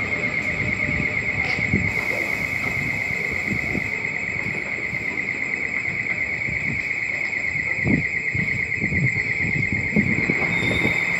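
NJ Transit bi-level commuter train rolling into the station and slowing, its wheels rumbling over the rails with a couple of louder clunks near the end. A steady, high-pitched, slightly warbling whine sounds throughout.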